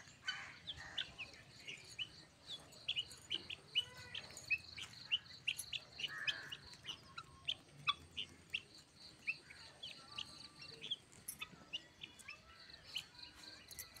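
Birds chirping in short, rapid notes, two to three a second, over a faint steady pulsing high buzz.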